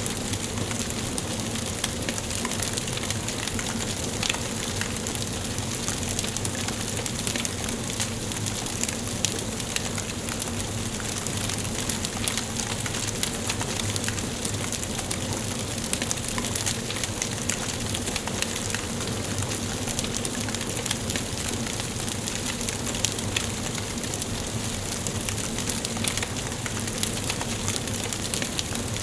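Wood fire burning in a fireplace: a steady hiss with constant small, irregular crackles and pops from the burning logs.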